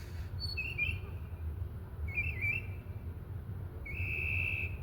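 Three whistled, bird-like calls. The first two are short and warbling, about a second and a half apart, and the third is a longer steady note near the end. Under them runs a steady low rumble. The uploader takes the calls for fake bird calls played from a speaker.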